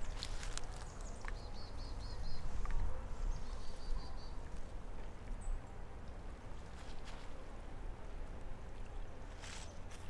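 Outdoor ambience with a steady low rumble and a few light clicks, over which a small bird calls twice in quick runs of about four short high notes, about a second in and again near four seconds.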